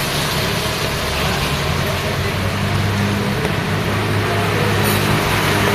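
Road traffic in the rain: a steady hiss of rain and tyres on a wet road, with the low hum of vehicle engines running close by, growing stronger after about two seconds.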